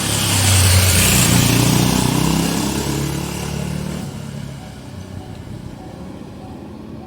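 A motor vehicle passing by, its engine note rising as it comes close. It is loudest a second or two in, then fades away.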